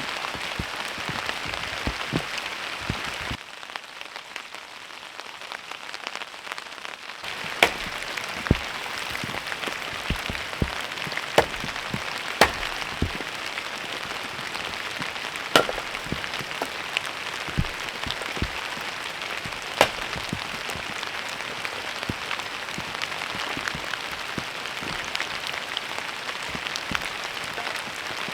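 Steady rain hissing down, with scattered single heavy drops striking sharply, several much louder than the rest. The rain goes softer for about four seconds a few seconds in, then returns at full strength.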